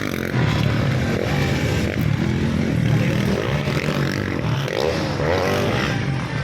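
Motocross bikes running on the track, engines revving and shifting as they pass.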